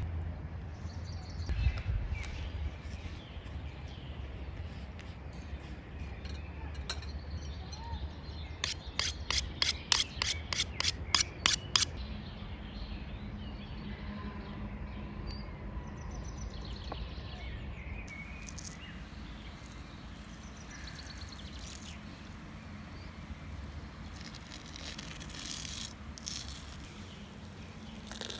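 Steady outdoor background noise, with a quick run of about a dozen sharp knocks, three or four a second, lasting about three seconds near the middle.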